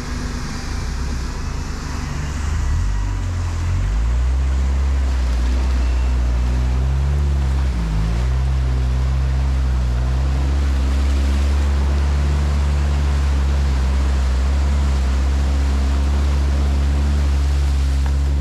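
ATV engine running under steady throttle, its low drone swelling about four seconds in and dipping briefly near eight seconds before holding steady, over a rushing noise.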